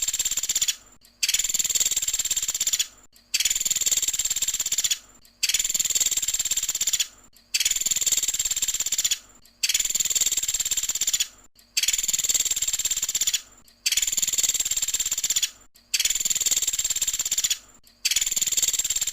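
Pelatuk sampit (small woodpecker) singing a rapid, high-pitched trill of fast repeated notes. Each trill lasts about two seconds, followed by a brief pause, and the pattern repeats about nine times in an even rhythm.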